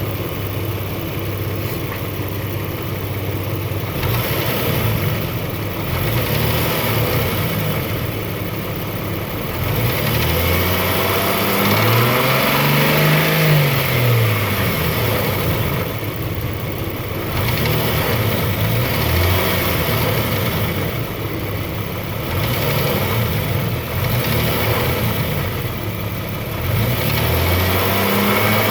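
Jeep Grand Cherokee's 4.0-litre inline-six, warmed up, idling and being revved several times, the longest rev about ten seconds in. It is run to show a ticking noise that is still there once the engine is warm.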